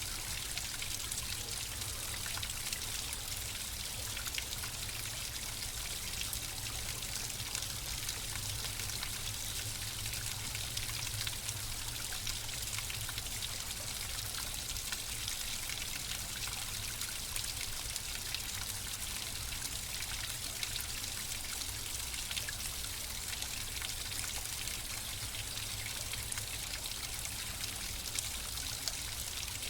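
Flowing water trickling and splashing steadily, with a constant fine patter of small drips and splashes.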